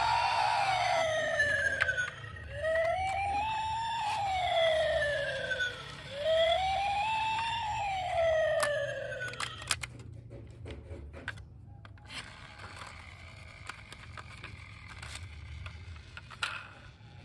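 Electronic wailing siren of a toy emergency vehicle, rising and falling in pitch about every three and a half seconds, three wails, and cutting off a little over halfway through. Light plastic clicks and taps follow.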